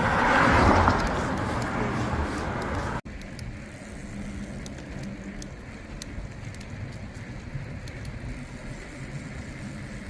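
Road traffic noise during a bike ride: a vehicle passes in the first three seconds. After an abrupt cut about three seconds in, a quieter steady rumble with occasional faint clicks.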